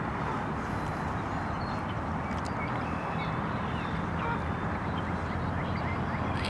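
Steady outdoor ambience by a pond: a constant low rumble of distant highway traffic, with a few faint duck quacks over it.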